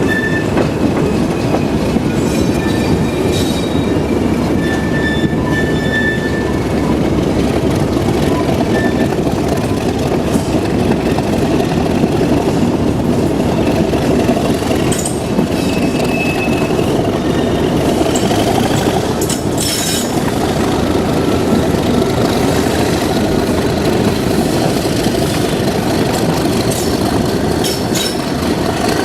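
Heritage diesel train running on the rails: a loud, steady rumble with faint high wheel squeal and a few sharp clicks from the track.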